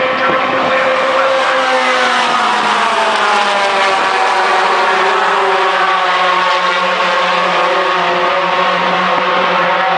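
Racing pickup truck engines running hard at speed. Their pitch falls over the first few seconds, then holds roughly steady.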